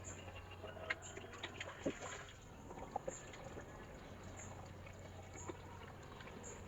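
Water being poured onto soil while watering tomato seedlings: an uneven trickle and splash with short irregular spatters.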